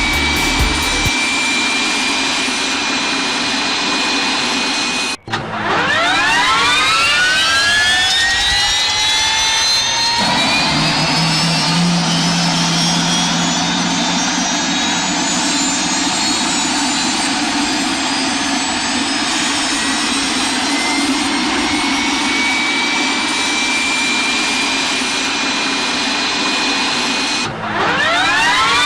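Jet engine spooling up: a turbine whine of several pitches climbing slowly over many seconds. It cuts off about five seconds in and again near the end, and each time starts its climb over from low.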